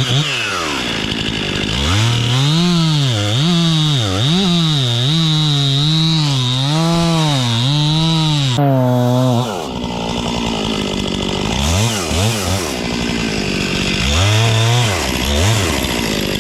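Stihl MS 261 two-stroke chainsaw cutting into a tree trunk, its engine pitch dipping and recovering over and over under load. About nine and a half seconds in it drops back toward idle, then is revved briefly twice.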